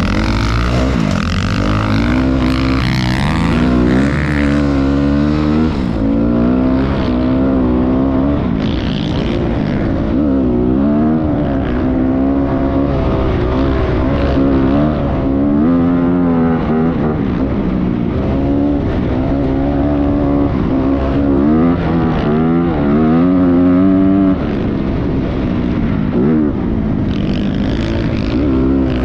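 Motocross dirt bike engine being ridden hard, its pitch climbing and falling again and again as the throttle is opened and closed.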